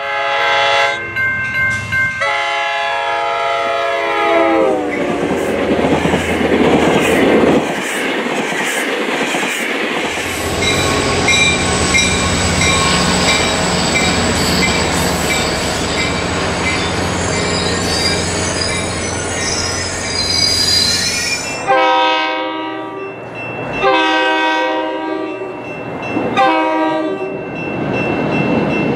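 Diesel train horns and a passing commuter train. A multi-note horn sounds twice near the start, the second time with its pitch dropping as the train goes by. Then a diesel-hauled train rolls past with engine rumble, wheel noise on the rails and a high thin squeal. In the last seconds a horn blows the grade-crossing signal: two long blasts, a short one, and a final long one beginning.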